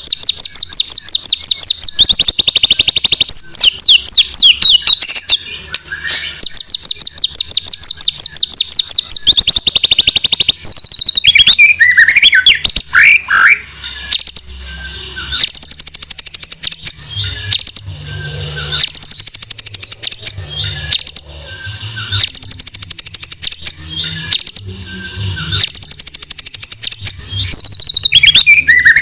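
White-rumped shama (murai batu) singing loudly: long runs of very fast high trilling and chattering notes, broken from about a third of the way in by lower, clear gliding whistles, then short bursts of rapid notes repeated every second or two.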